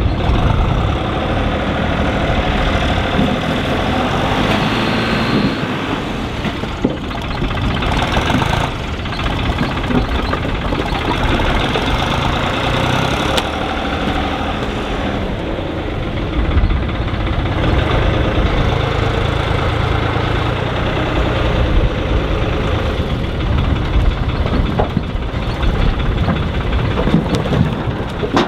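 Tractor engine running steadily, with small swells in loudness.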